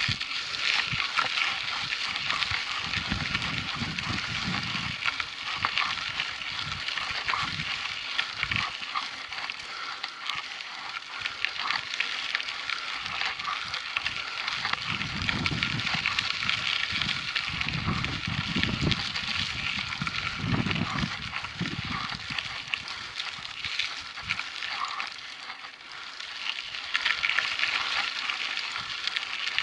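Mountain bike tyres rolling over a loose dirt trail, a steady crackling crunch full of small clicks. Gusts of wind buffet the microphone with a low rumble a few seconds in and again around the middle.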